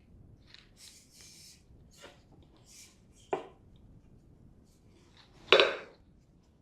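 Trainer parts and bolts being handled during assembly: soft rustling, a sharp knock a little past the middle, and a louder knock about five and a half seconds in.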